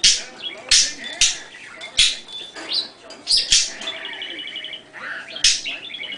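Pet bird calling: loud, sharp chirps repeated every half second to second or so, with a fast trilling chatter about four seconds in and again near the end.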